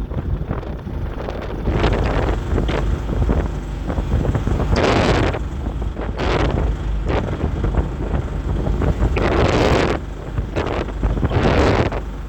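Wind buffeting the microphone: a steady low rumble with louder gusts of hiss every few seconds.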